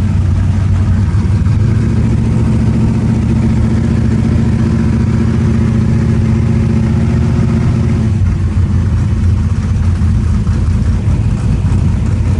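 Race car's engine running at low speed, heard from inside the cabin: a loud, steady low drone whose note changes about eight seconds in.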